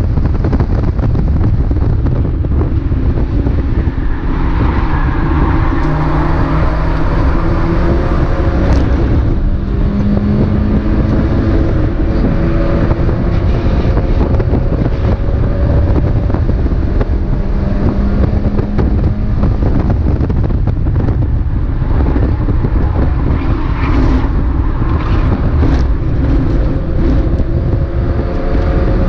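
Mazda MX-5 race car engine heard from on board at racing speed, its note rising and falling as the car accelerates and slows, over heavy wind and road noise. The pitch climbs steadily over the last several seconds.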